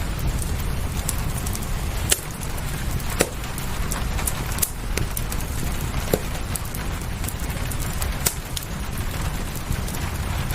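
Wood fire crackling in a fireplace: sharp, irregular pops a second or more apart over a steady low rumble and a soft rain-like hiss.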